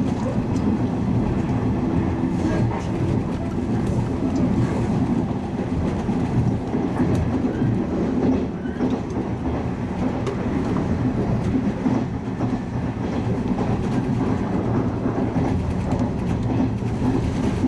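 Toyama Chihō Railway 10030 series electric train (ex-Keihan 3000 series) running at speed, heard from inside the car: a steady rumble of wheels on rails and running gear, with occasional light clicks.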